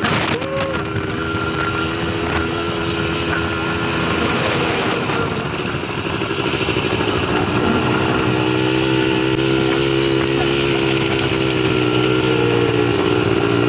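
ATV engine running steadily during a ride, its pitch wavering slightly with the throttle and growing louder about seven to eight seconds in.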